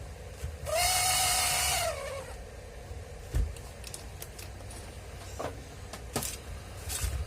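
Keyang DG-180FB 7-inch angle grinder switched on for about a second with a high whine and hiss, then switched off, the whine falling in pitch as it winds down. A few short knocks and clicks follow.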